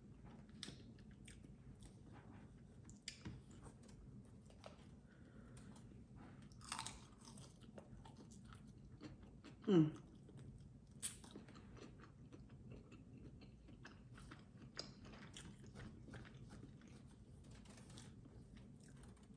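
Close-miked chewing and biting of fried chicken wings, with small wet clicks and crunches throughout. About halfway through comes one short sound sliding down in pitch, the loudest moment, followed by a sharp click a second later.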